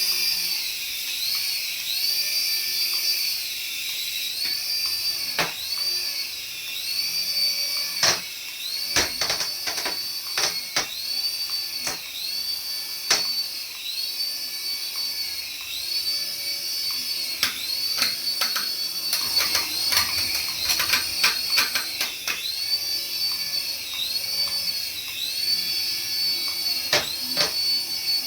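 Small electric motor of a remote-control toy whining at a high pitch that swells and dips about once a second, with scattered clicks and knocks from handling.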